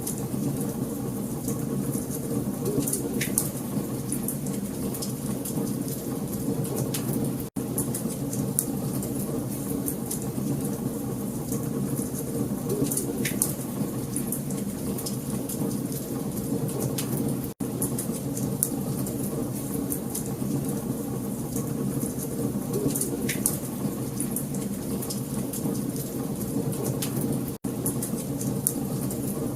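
Wood fire crackling in a fireplace: a steady low rush of burning logs with scattered sharp crackles and a few louder pops. The sound cuts out for an instant three times, about ten seconds apart.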